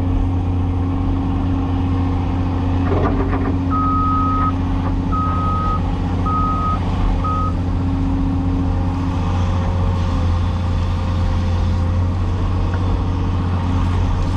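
Cat 336E hydraulic excavator's diesel engine running steadily, with a brief clatter about three seconds in. A backup alarm then beeps four times, each beep shorter than the last.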